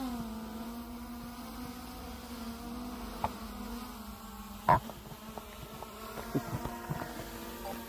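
Quadcopter drone's propellers buzzing steadily while it hovers, the pitch wavering a little, with a couple of sharp knocks, the louder one just under five seconds in.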